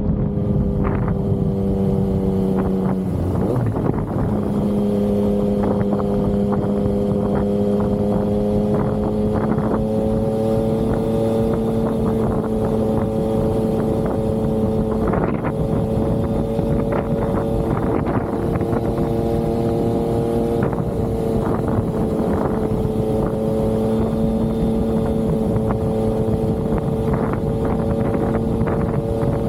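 Yamaha XSR900's inline three-cylinder engine running under way while riding. The note sags and cuts out briefly about three seconds in, then holds steady and rises slowly.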